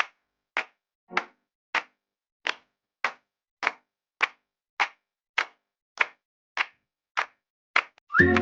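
Short, sharp clap-like hits repeated at a steady beat, about one every 0.6 seconds with silence between; music starts just before the end.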